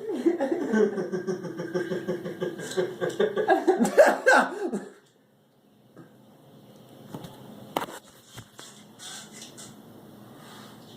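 A person laughing hard in quick, even pulses for about five seconds, then breaking off suddenly; faint room noise follows with a single sharp click.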